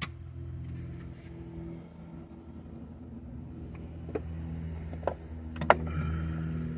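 A few sharp clicks and taps of hand tools and plastic trim pieces being handled, the loudest about two-thirds of the way in, over a steady low hum.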